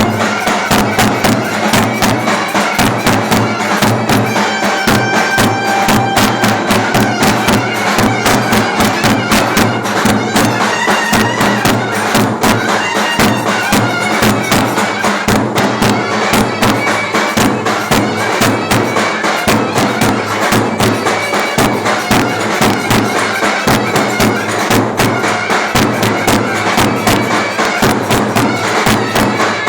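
Turkish clarinet playing a wavering melody over a davul bass drum beating a fast, steady rhythm: traditional Turkish folk dance music.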